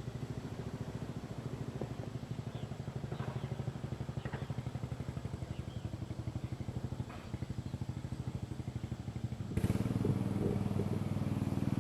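A small engine running steadily with a fast, even pulse, stepping up noticeably louder a little after nine and a half seconds in.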